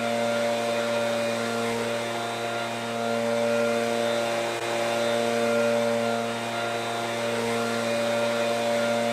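Small gasoline engine running at a steady speed, an even hum that does not change in pitch.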